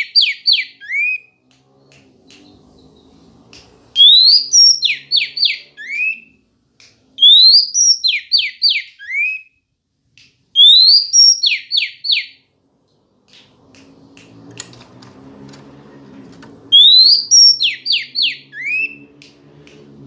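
Oriental magpie-robin (female) calling: the same short phrase repeated five times, with a long gap before the last. Each phrase is a rising whistle followed by three quick falling notes and a short final note.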